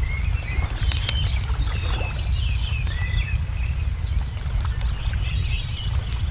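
Ambience bed: small birds chirping and twittering over a steady low rumble, with scattered sharp crackles of a wood fire.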